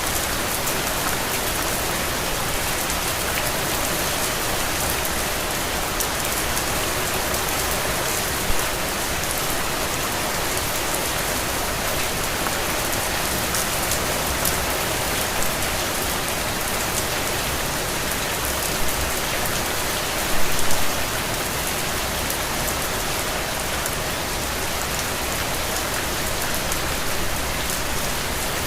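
Steady rain falling, a dense even hiss with many fine drop patters, and a few louder drips or splats, the loudest a short cluster about two-thirds of the way through.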